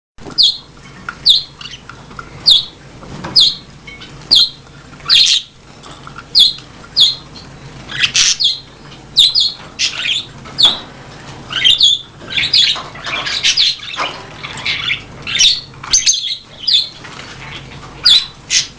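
Young budgerigars calling with sharp, high squawks about once a second, several birds overlapping in a busier stretch of chatter partway through.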